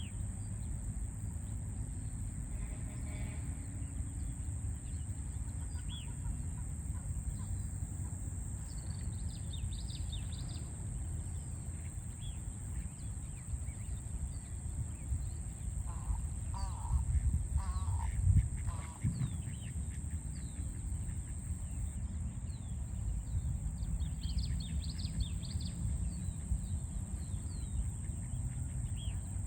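Small birds chirping in short high notes against a steady low rumble of city traffic. About two-thirds of the way through, a few louder, lower bird calls stand out, with a brief low thud among them.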